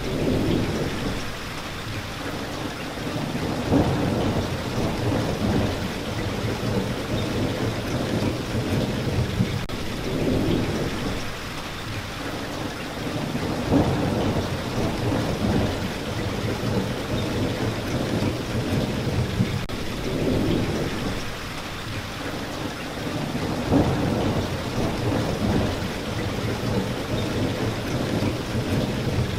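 Steady rain falling, with low rumbles that swell and fade every few seconds, like distant thunder.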